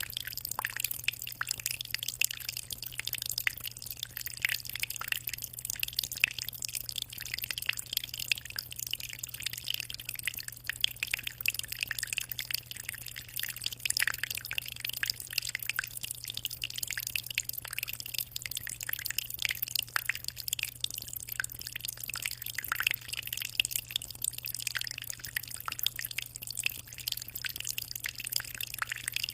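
Aquarium water trickling and splashing without a break: a dense patter of small drips and splashes over a steady low hum.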